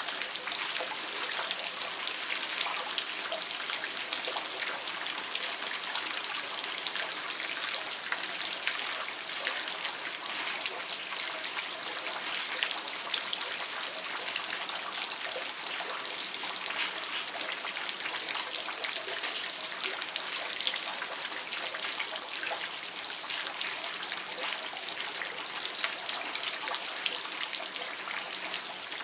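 Steady rain falling, with a dense patter of individual drops striking hard surfaces and water trickling.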